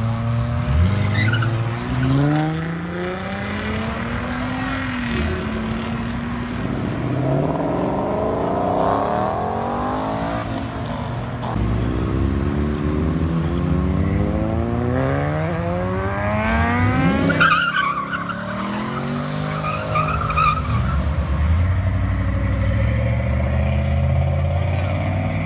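Car engine revved hard again and again during a burnout, its pitch climbing and dropping over and over, with tyres squealing as they spin.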